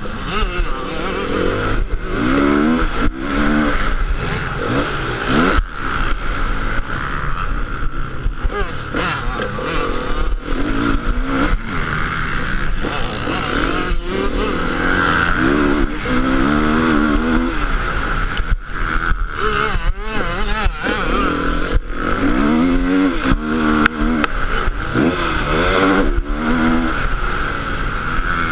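Motocross motorcycle engine revving up and falling off again and again as it is ridden through the throttle and gears, with scattered short knocks and a steady noisy hiss.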